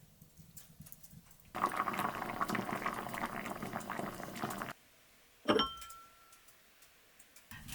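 Liquid pouring for about three seconds, starting and stopping abruptly, then one clink with a short ring.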